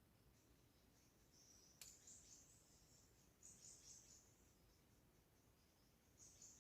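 Faint forest ambience of high-pitched chirps and trills, coming in bursts, louder about two and three and a half seconds in and again near the end. A single sharp click comes just before the first loud burst.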